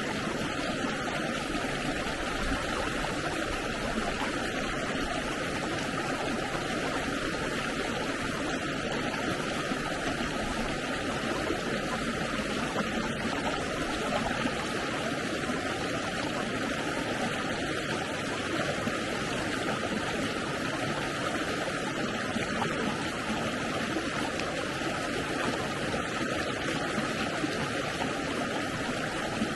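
A stream's water flowing and rushing steadily, an even, unbroken sound.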